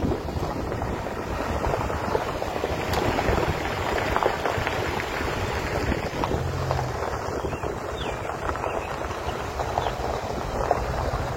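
Wind buffeting the microphone: a steady rumbling rush with no clear pitch.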